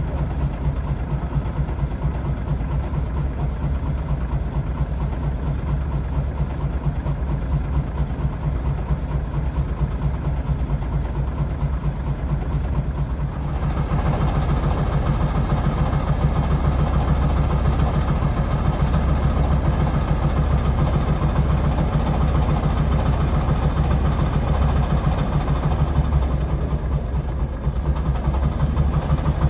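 Caterpillar 345B L excavator's diesel engine running steadily, then getting louder about halfway through and holding at the higher level, with a brief dip near the end.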